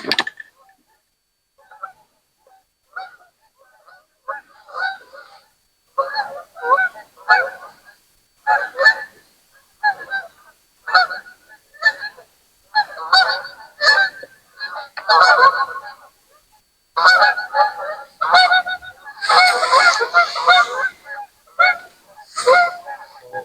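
Geese honking: a few scattered honks at first, building from about six seconds in into a dense, overlapping chorus that is thickest near the end.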